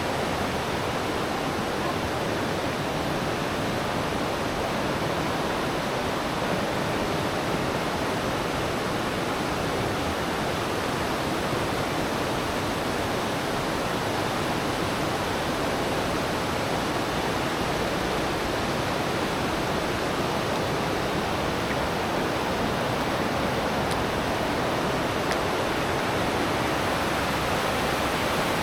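A river's water rushing in a steady, unbroken flow.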